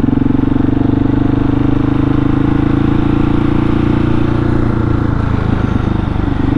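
Husqvarna 701's single-cylinder engine running steadily, its firing pulses even, with a slight waver in pitch about five seconds in.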